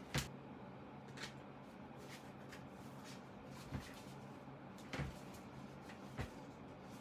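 Five short, sharp clicks and knocks, the loudest just after the start, from handling the cover and tools on a work surface during disassembly, over a faint steady hum.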